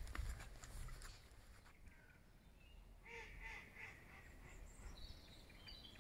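Faint bird calls over quiet outdoor ambience: a short cluster of calls about three seconds in, then higher chirps near the end. A few faint taps sound in the first second.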